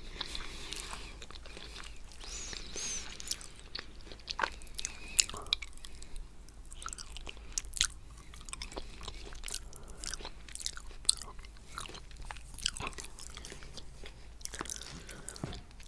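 Close-miked chewing of coconut cheesecake full of coconut flakes: many irregular wet mouth clicks and smacks.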